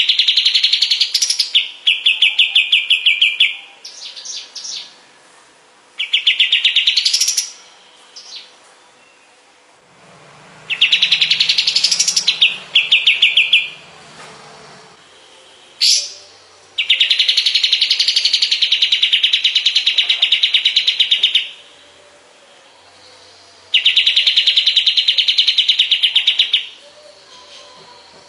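A kapas tembak songbird singing loud bursts of rapid, buzzy trilled notes, one after another with short pauses between them. Some bursts end in a quick rising sweep, and the longest steady trills, each four to five seconds, come in the second half.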